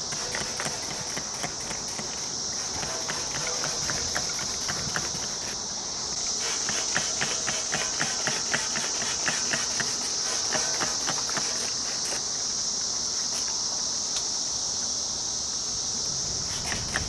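Steady high-pitched insect chorus with a dense, irregular patter of short clicks over it.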